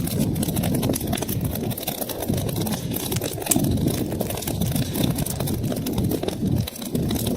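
Wood fire in a fireplace crackling, with many quick, sharp pops over a steady low rumble of the flames.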